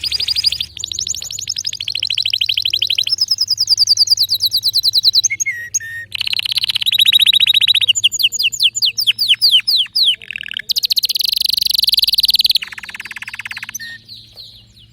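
Domestic canary singing a long run of rapid trills. Each phrase is a fast string of repeated notes that changes every second or two, some high and sweeping. The song stops near the end.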